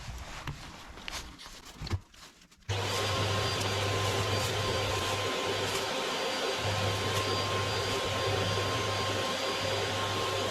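A few light knocks and rustles, then about two and a half seconds in a vacuum cleaner switches on and runs steadily with a constant hum and whine.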